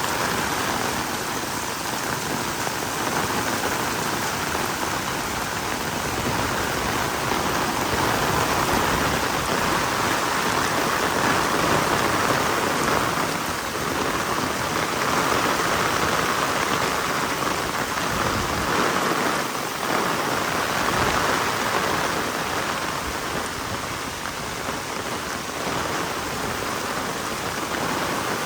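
Heavy rain falling steadily, pattering on the ground and surfaces, the downpour swelling and easing a little.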